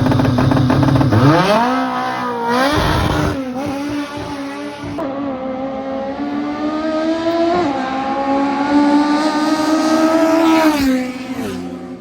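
Drag-racing car engine held at steady revs, then launching about a second in and pulling hard up through the gears, with shifts at roughly 2.5 and 7.5 seconds, before the driver lifts off near the end. The intake roar of its individual throttle bodies dominates the sound.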